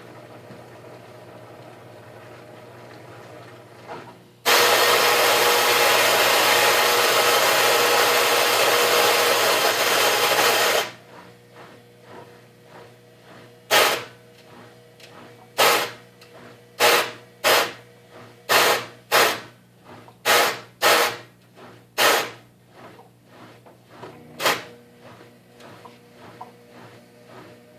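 Whirlpool WFC7500VW1 front-loading washing machine with a low hum, then a loud grinding that lasts about six seconds and stops suddenly. About ten short bursts of the same grinding follow at uneven gaps.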